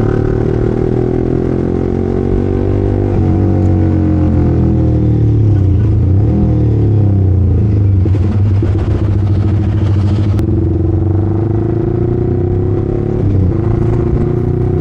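Yamaha R15 single-cylinder motorcycle engine running under way. Its pitch climbs for about three seconds, drops sharply, then holds fairly steady with small changes in throttle.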